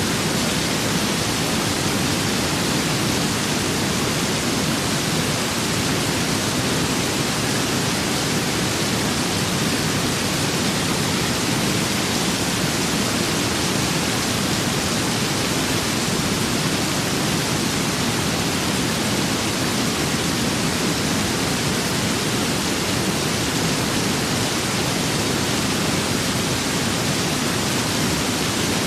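Steady rain with wind: an even, unbroken hiss with no separate drops, gusts or thunder.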